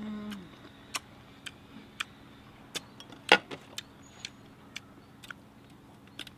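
Irregular sharp clicks and ticks at uneven intervals, about a dozen, with one louder click a little past three seconds in.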